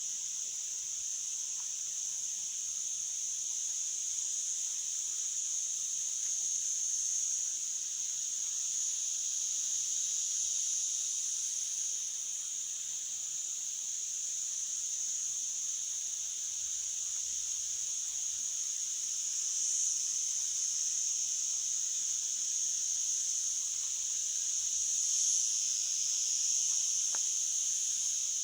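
A steady, high-pitched insect chorus: a continuous buzz that swells slightly a couple of times.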